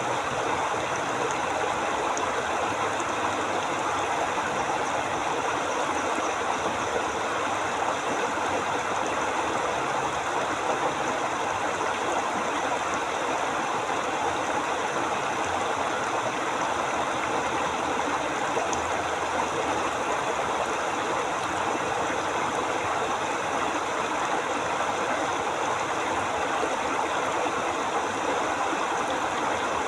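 River water flowing steadily, an even, unbroken wash of moving water.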